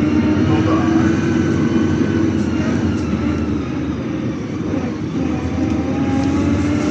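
City bus running, heard inside the passenger cabin: a steady engine and drivetrain drone over road noise. Its pitch rises slightly at first, eases off in the middle and climbs again near the end as the bus picks up speed.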